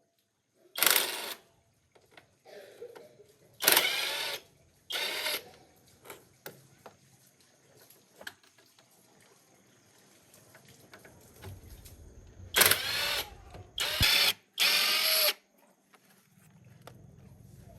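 A power tool, such as a drill or impact driver, run in six short bursts of about half a second each. There are faint clicks and knocks of tools between the bursts.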